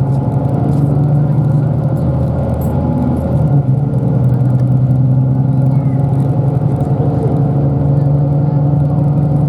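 Bus engine and road noise heard from inside the passenger cabin: a steady low drone, its pitch shifting slightly about three and a half seconds in.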